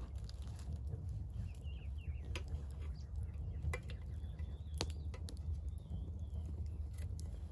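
Wood campfire crackling, with scattered sharp pops over a steady low rumble. Birds call faintly in short wavering phrases.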